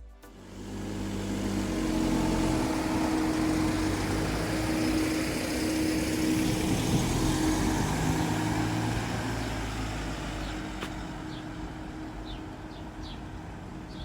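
A motor vehicle's engine and tyre noise as it passes: it grows over the first two seconds, holds steady, then fades after about eight seconds. A few short high chirps sound near the end.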